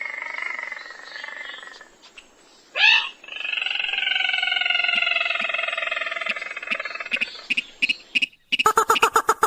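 Recorded lure calls of rails and crakes (sintar, mandar padi). First come long, harsh, slightly falling calls with a short rising note about three seconds in. Near the end comes a run of quick clicking notes that speed up into a rapid pulsed burst.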